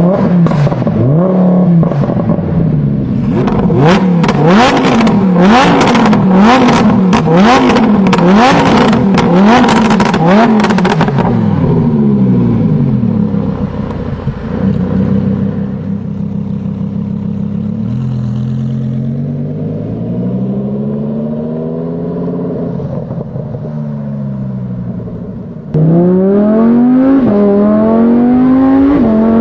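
Lamborghini Huracán's V10 engine being revved hard through its exhaust, the pitch rising and falling about once a second with loud crackles and pops for the first ten seconds or so. It then settles into slower, quieter revs, and near the end comes in suddenly loud, the pitch climbing in steps as the car accelerates through the gears.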